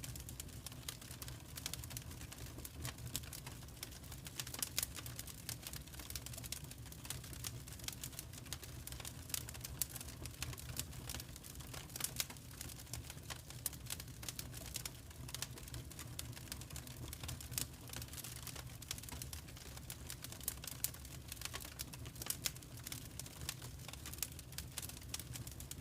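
Fireplace fire crackling: frequent irregular snaps and pops over a steady low rumble.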